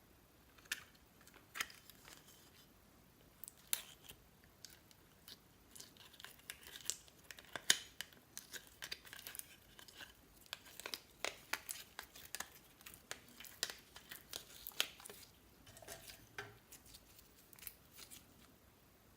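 Slime being kneaded and stretched by hand, giving faint, irregular sticky clicks and crackling pops, thickest through the middle.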